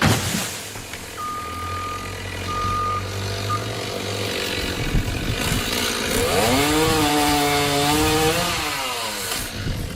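Gasoline chainsaw revved up about six seconds in, held at high revs for a couple of seconds, then let back down. Before that, a low engine rumble runs in the background and a short high beep sounds three times.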